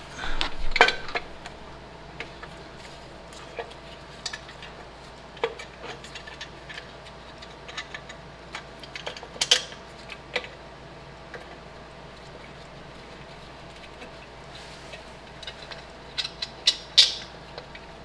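Metal hand tools and fasteners clinking and clicking during work on engine and transmission mounts: scattered light taps, with louder bursts of clinking at the start, about halfway through and near the end.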